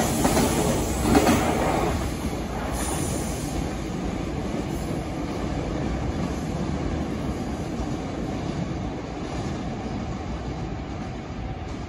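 Freight train rolling past on the rails, its rumble loudest in the first two seconds and fading steadily as it moves away.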